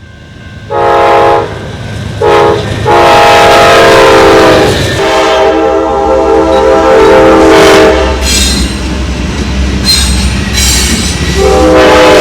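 Locomotive air horn, a K5LA, sounding two short blasts and then a long one whose chord drops in pitch as the fast train passes. This is followed by the rumble and wheel clatter of the passing train and one more horn blast near the end.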